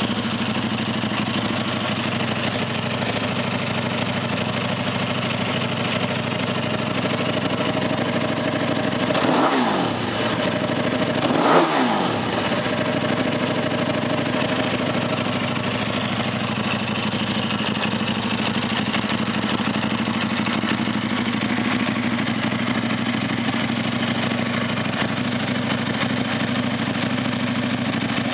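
KTM RC8 V-twin idling through a full Akrapovic titanium exhaust with the dB killer left in, blipped twice about two seconds apart near the middle, each rev rising and dropping quickly back to idle, the second a little louder.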